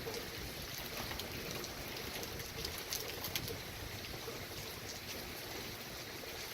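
Steady wind and water noise from a passing thunderstorm, with scattered faint ticks.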